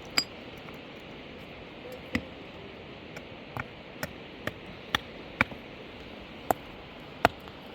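A series of about nine sharp knocks at uneven intervals over a steady low hiss, the strongest near the start and near the end.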